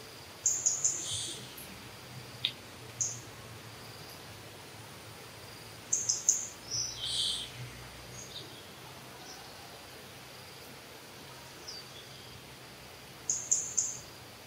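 Wild birds chirping: short, very high-pitched notes in quick runs of three or four, heard three times, with a few single chirps between, over a steady faint forest hiss.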